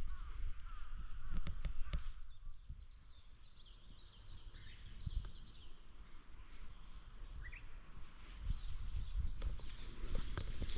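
Small birds chirping in quick runs of short falling notes over a steady outdoor hiss, with a few sharp knocks and rustles near the start and again at the end.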